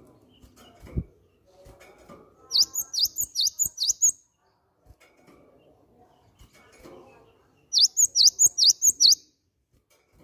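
Cinereous tit (gelatik batu) singing: two loud phrases of seven or eight sharp, quick repeated notes, about five a second, the first a few seconds in and the second near the end, with faint clicks and rustling between them.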